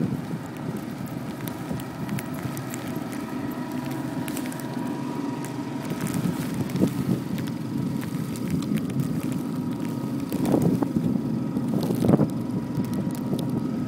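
Street traffic rumble with wind buffeting the microphone. A couple of louder swells about ten and twelve seconds in, as vehicles pass close by.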